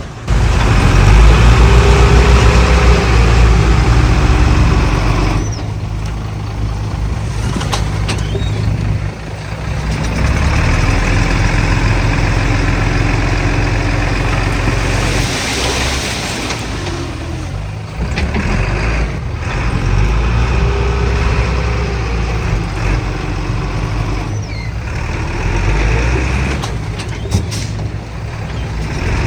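Heavy diesel engines of earthmoving machinery running steadily, with abrupt shifts in loudness and a brief hiss about halfway through.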